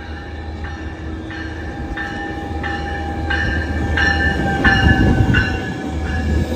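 An arriving Metrolink commuter train with its bell ringing steadily, about one and a half strikes a second, over a low rumble that grows louder as it nears.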